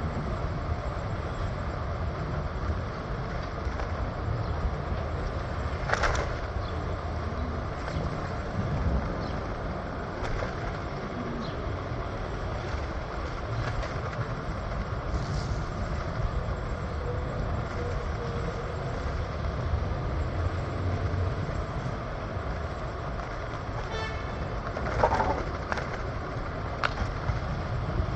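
PATH commuter train running on its rails: a steady low rumble with a few sharp clicks, one about six seconds in and a cluster near the end.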